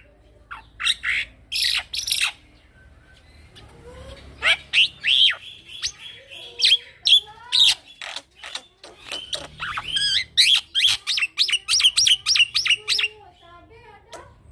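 Young male black-winged myna (Acridotheres melanopterus) singing: loud chirps and whistles, a brief pause, then a long rolling run of quick repeated notes.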